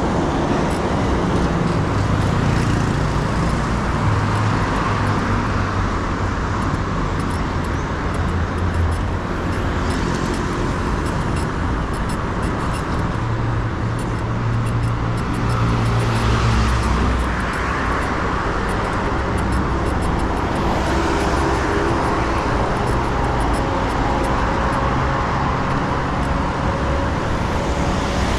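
Road traffic on a busy city avenue, heard from a moving bicycle: cars and buses running past, their engine notes rising and fading one after another over a steady rush of road noise.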